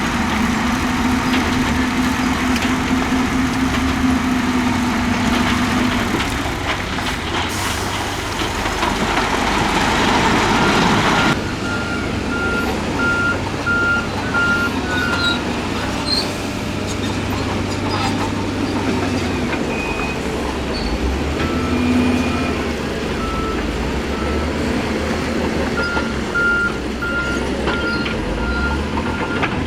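Heavy diesel earthmoving machinery running, with a loud rushing noise that cuts off suddenly about eleven seconds in. After that, a reversing alarm beeps in repeated runs.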